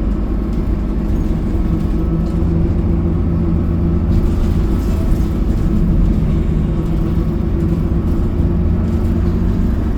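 City bus running along the road, heard from inside the cabin: a steady engine and drivetrain hum over low rumble and road noise.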